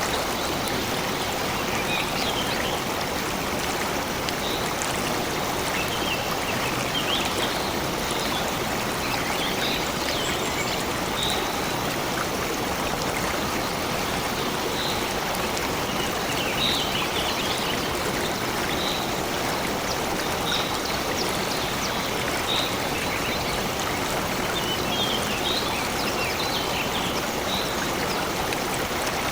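Stream water running steadily, with short, high bird chirps scattered throughout.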